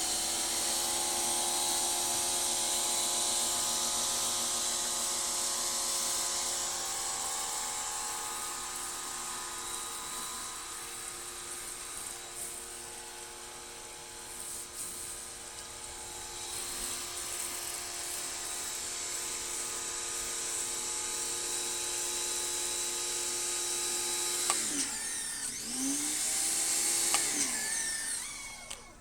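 Pressure washer running with a steady motor whine over the hiss of the spray. About 25 seconds in the whine drops and spins back up, then winds down and stops near the end, as the trigger is released.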